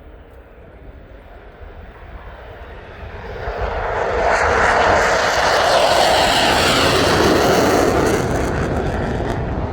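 Dassault Mirage 2000 fighter jet flying past as it departs: the jet noise builds about three seconds in, is loudest through the middle, and eases slightly near the end.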